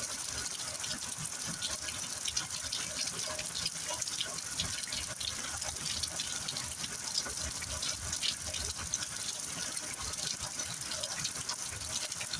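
Heavy rain falling steadily, a constant hiss of water with many close drops pattering.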